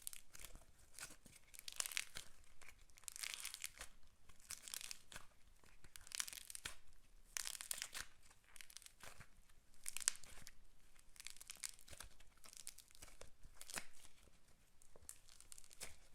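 Slime being squished and pulled by hand, crackling and popping in repeated bursts every second or two.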